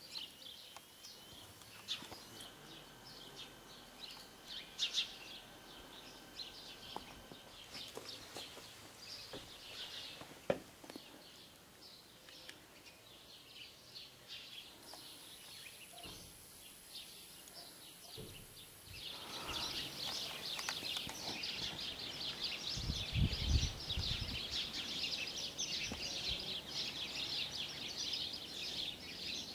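Small birds chirping, scattered and sparse at first, then a dense, busier chorus of chirps for roughly the last third. A brief low rumble sounds during the dense part.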